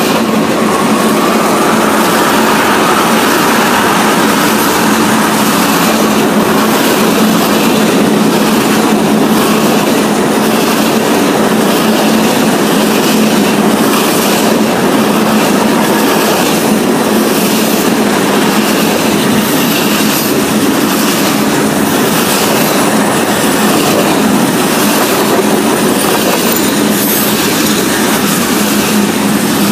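Mixed freight train's tank cars, gondolas and covered hoppers rolling past close by: a loud, steady rumble and clatter of steel wheels on the rails.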